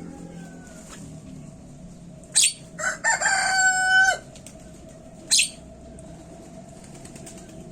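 Javan myna calling: short, sharp, harsh calls about every three seconds, and a drawn-out crowing call a little over a second long about three seconds in.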